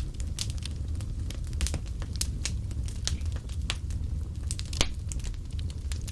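Fireplace fire crackling: irregular sharp pops and snaps, several a second, over a steady low rumble of the flames. One louder snap comes near the end.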